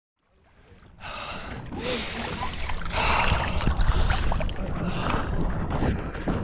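A short stretch of dead silence, then wind buffeting the microphone and water rushing past a 16ft skiff's hull as it sails fast in strong wind. The noise builds over the first second and stays loud and uneven.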